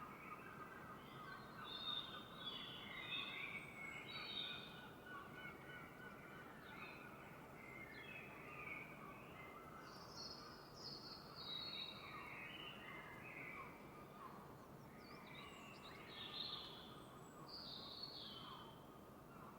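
Dawn chorus: several songbirds singing in short, overlapping chirping phrases over a soft, steady background hiss.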